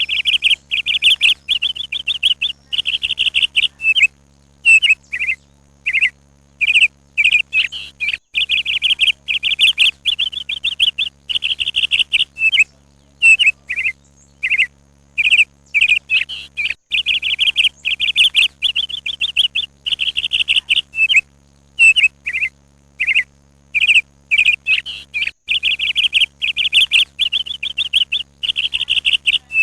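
Small birds chirping: runs of rapid trilled chirps alternate with single short downslurred notes, and the pattern repeats about every eight seconds.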